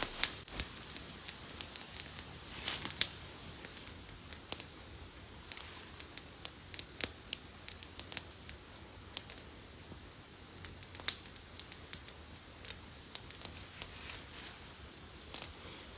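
Campfire crackling: scattered, irregular sharp pops and snaps over a faint steady hiss, a few louder snaps among them.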